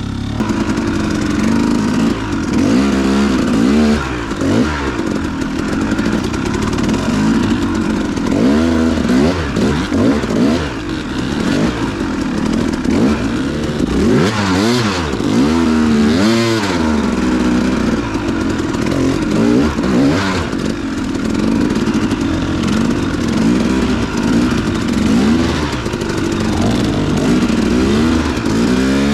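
Dirt bike engine revving up and down again and again as the throttle is worked on a rough trail, with a few brief clattering rattles midway.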